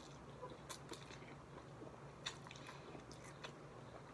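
A person chewing a mouthful of pho, faint, with a few scattered soft mouth clicks.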